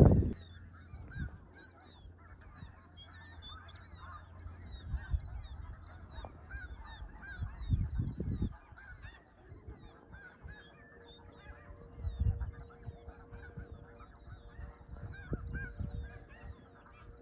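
Dense chorus of snow geese yelping, many short high calls overlapping without a break. A loud low thump comes right at the start, and a few low rumbles follow later.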